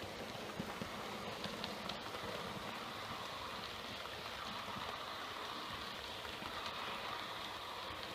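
Model train running on the track: a steady rolling whirr of small metal wheels on rails, with a few faint clicks in the first couple of seconds.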